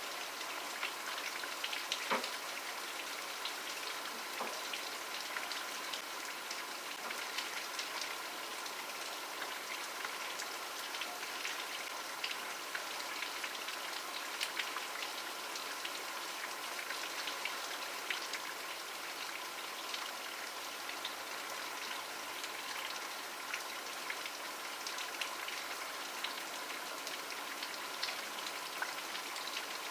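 Steady rain falling on a surface, a constant hiss dotted with many individual drop taps.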